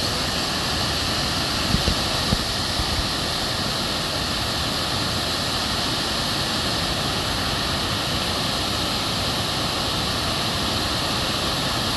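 Waterfall rushing: a constant, steady roar of falling water from a wide cascade. A couple of faint knocks come about two seconds in.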